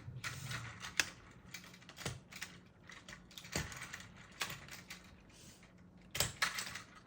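Hard plastic Plarail toy trains being handled, giving irregular clicks and light knocks, with a sharper click about a second in and a short cluster near the end.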